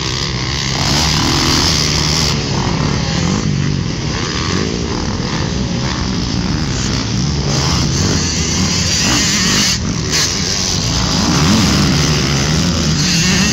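Dirt bike engines revving up and down over and over, the pitch rising and falling every second or two, with a loud rushing noise over them.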